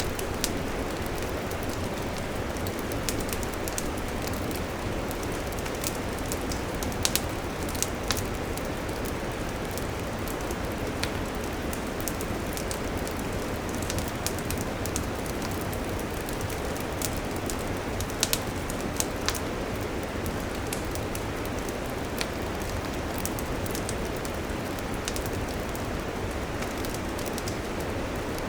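Wood campfire burning with a steady hiss and frequent sharp crackles and pops, a few of them louder.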